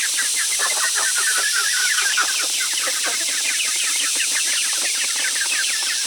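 A crowd of young poultry chicks peeping together, dozens of short high falling cheeps overlapping without a break, over a steady high hiss.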